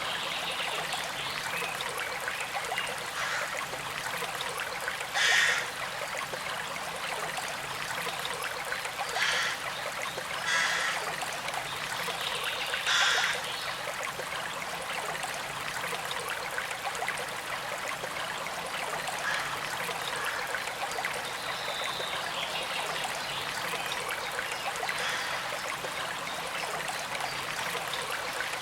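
Small creek flowing steadily with a gentle trickle. Four brief louder surges of water come between about five and thirteen seconds in.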